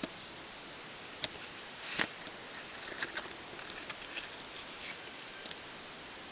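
Scattered light rustles and sharp clicks over a steady hiss, the loudest click about two seconds in and a small cluster about a second later.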